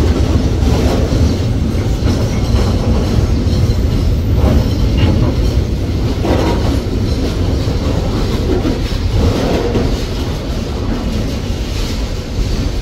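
Loaded container flatcars of a freight train rolling past close by: a loud, steady rumble of steel wheels on the rails.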